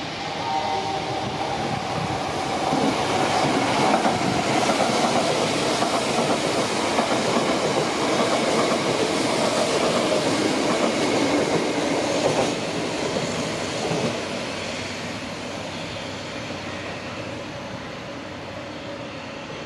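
Electric commuter train running along a station platform, wheels clattering on the rails. The noise swells over the first few seconds, holds, then fades as the train moves away.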